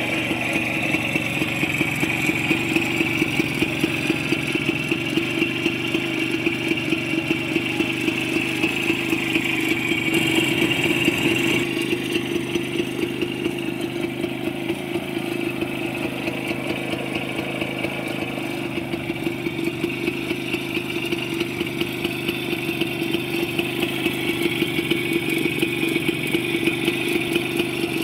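WSK 125 motorcycle's single-cylinder two-stroke engine idling steadily, with an even run of exhaust pulses; it gets slightly louder around ten seconds in and then settles back.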